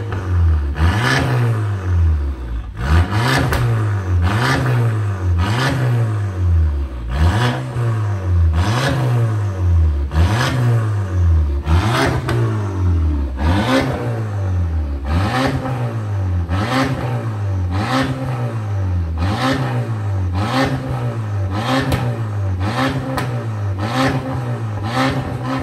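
Audi A4 B8 2.0 TFSI turbocharged four-cylinder revved again and again through an aftermarket Emil valved exhaust. Each rev climbs and drops back about every one and a half seconds, a little quicker near the end.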